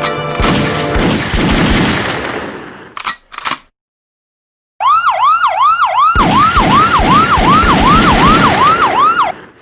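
Sound effects in sequence: a noisy crash with rapid clicks that fades out over about two seconds, then two short bursts. After a brief silence, a fast electronic yelping siren sweeps up and down about three times a second, with a rapid clatter underneath from about a second after it starts.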